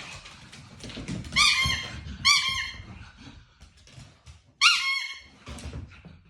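A squeaky toy squeaked three times, each a short squeak that rises in pitch and then holds. The last squeak is the loudest, with softer rustling in between.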